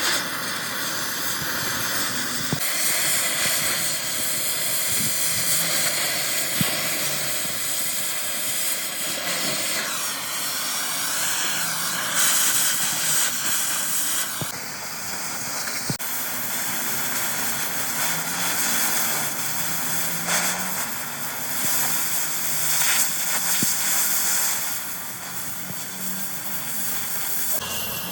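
Steady, loud hissing noise of metalworking repair work, changing character abruptly several times.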